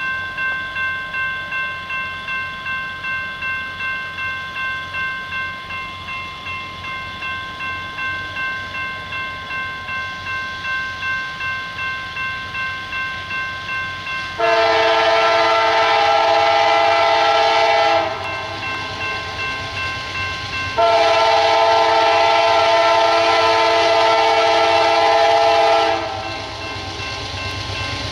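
A bell rings rapidly, about two to three strikes a second. Then a diesel freight locomotive's air horn sounds two long chord blasts and starts a third near the end, the opening of a grade-crossing horn sequence.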